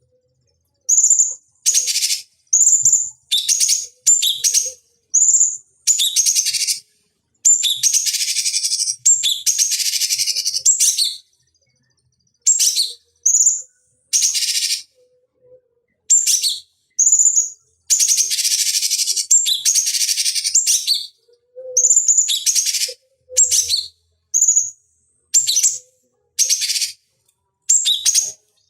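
Cucak cungkok calling in a series of short, high, down-slurred notes, broken up by longer harsh, rasping chatters of one to three seconds.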